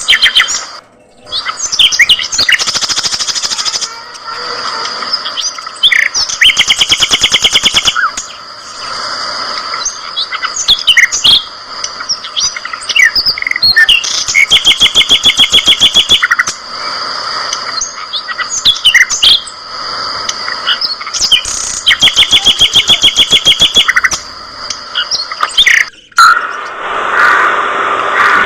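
A flock of budgerigars chattering and chirping, broken by several bursts of fast, rattling trill a couple of seconds long.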